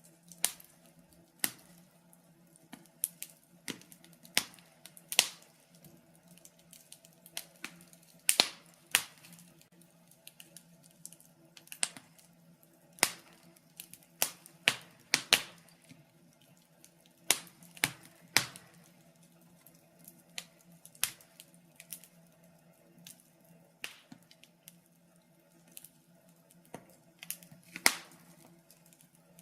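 Wood fire in a fireplace crackling, with sharp irregular pops about one or two a second, over a faint steady hum.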